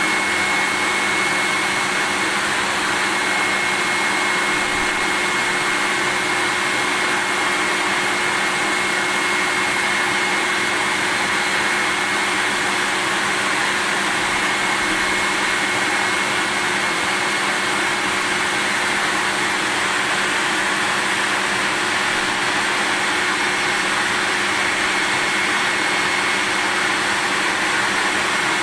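Vacuum cleaner running steadily at a constant speed: an even rushing hiss with a thin, steady high whine and a faint lower hum, unchanging throughout.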